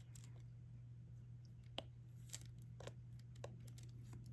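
Faint light clicks of a diamond-painting applicator pen tapping resin drills onto the sticky canvas, about one every half second in the second half, over a low steady hum.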